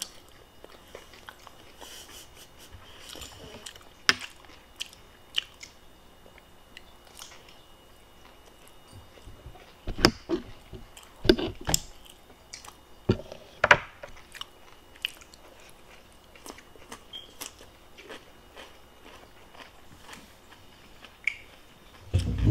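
Close-miked chewing and biting of food, with many small wet mouth clicks and a few louder knocks in the middle.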